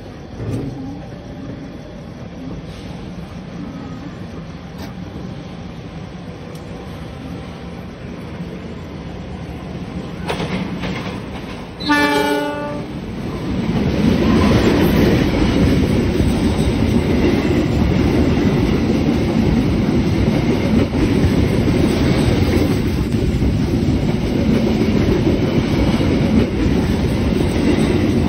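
Trains running on the rails: a steady rumble, one short train horn blast about twelve seconds in, then a much louder rumble and wheel clatter as the two trains pass each other.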